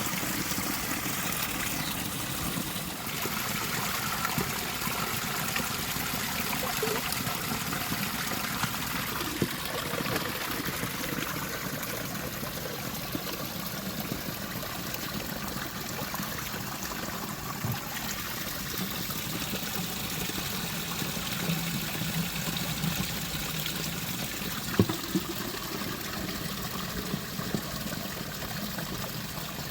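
Water running steadily, with a few short knocks, the sharpest near the end.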